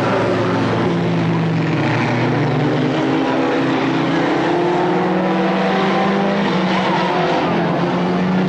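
Several stock car engines running together at racing speed: a loud, steady drone of overlapping engine notes, each drifting up and down in pitch.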